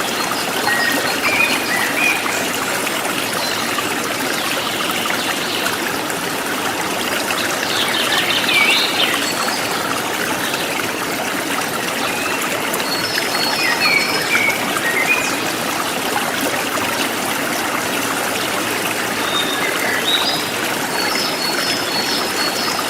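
A forest stream running steadily over stones, with birds chirping and whistling short phrases above it every few seconds.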